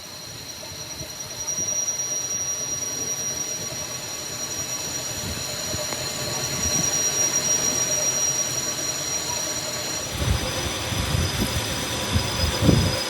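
Steady, high-pitched metallic squeal made of several held tones, from machinery at work. About ten seconds in, a rougher low rumble with uneven knocks joins it.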